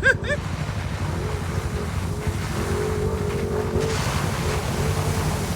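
CFMoto off-road vehicle's engine running while driving, with wind buffeting the microphone.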